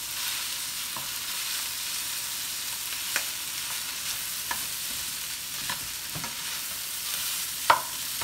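Cold rice with bacon and frozen vegetables sizzling steadily in hot oil in a pan while a spatula breaks it up and stirs it. A few scattered taps of the spatula against the pan come through, the loudest near the end.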